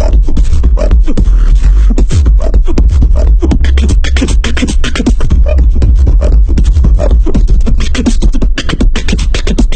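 Beatboxing: a person's vocal percussion making a steady drum-like beat, a quick run of sharp strikes over a heavy low boom.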